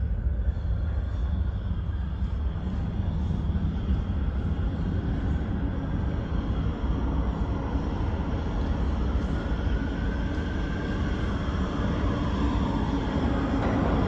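New York City subway train running in the station: a steady low rumble of wheels and motors, with a traction-motor whine that rises in pitch about two-thirds of the way through as it gets louder toward the end.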